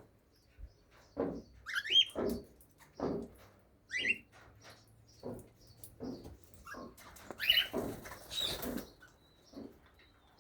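Cockatiels giving short chirps and calls about once a second, with a couple of quick rising chirps and a harsher, scratchy call a little past halfway.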